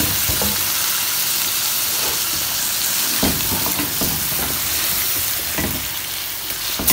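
Chicken pieces in onion and spice paste sizzling in oil in a metal pot, with a steady hiss. A wooden spatula stirs and scrapes them around every second or so, one scrape loudest near the end. This is the bhuna stage: the chicken is being fried on low heat until it softens and the oil rises to the top.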